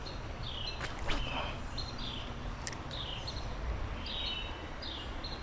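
A songbird chirping over and over, short high notes every half second or so, over the steady rush of a creek.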